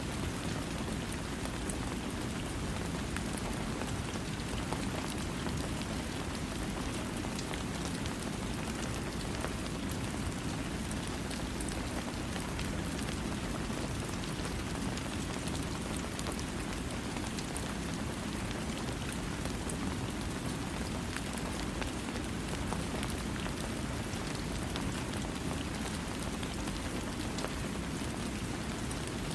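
Steady rain falling, a continuous even wash that is heaviest in the low end, with scattered sharp ticks of single drops.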